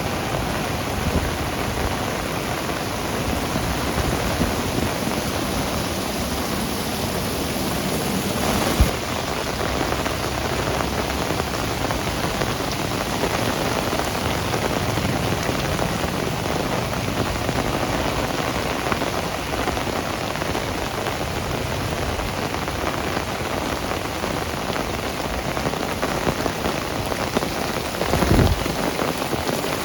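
Heavy rain falling steadily, a dense even hiss of drops hitting surfaces. A single sharp knock comes about nine seconds in, and a short low thump near the end.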